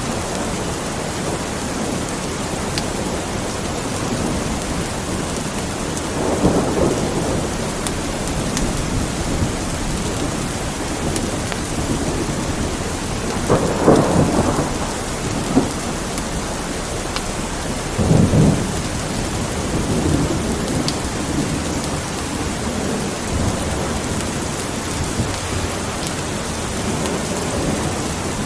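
Steady rain falling, with rolls of thunder swelling up about six, fourteen and eighteen seconds in.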